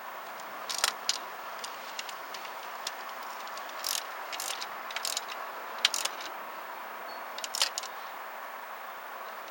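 Hand tools and metal parts clinking and clicking irregularly against the engine's metal parts over a steady background hiss, during work around the A/C compressor and belt tensioner.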